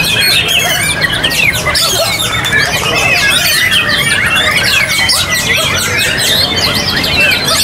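Many white-rumped shamas (murai batu) singing at once in contest, a dense tangle of overlapping whistles and chirps.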